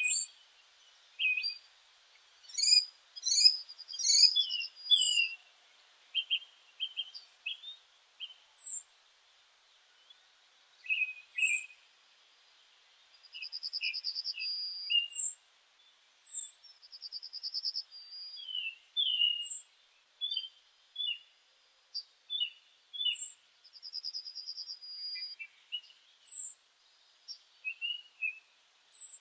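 Several songbirds calling in woodland: short high falling chirps every couple of seconds, a rapid trill lasting about a second that comes back four times, and scattered lower chirps.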